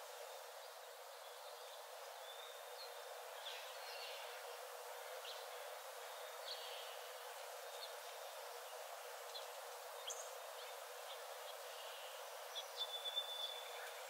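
Forest ambience: a steady soft hiss with scattered short bird chirps, and a quick run of sharper bird calls near the end.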